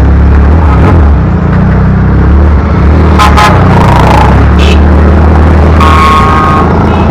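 Motorcycle engine running steadily while riding, a loud, dense low rumble. Brief higher tones sound over it about halfway through and again near the end.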